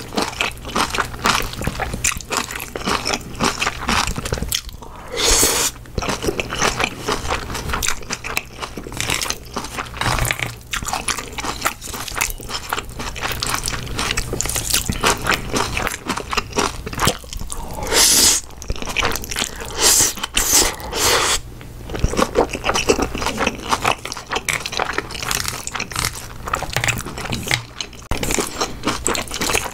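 Close-miked mouth sounds of eating: chewing black-bean instant noodles and fried egg, with crunchy bites and moist clicks throughout and a few longer, louder bursts.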